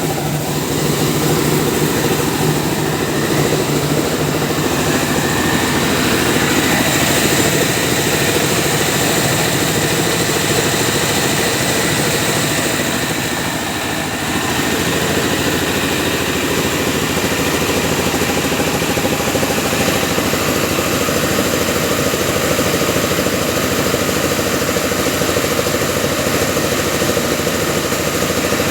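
Mobile rice milling machine running steadily, its engine and milling machinery making a loud, continuous mechanical noise.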